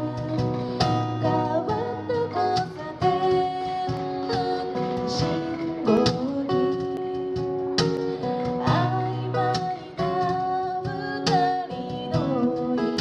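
Live music: an acoustic guitar strummed and picked through a song, with singing over it.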